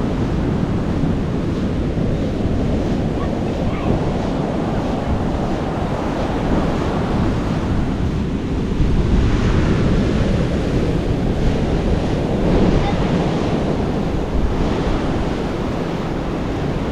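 Ocean surf washing in as a steady rush that swells now and then, with wind rumbling on the microphone.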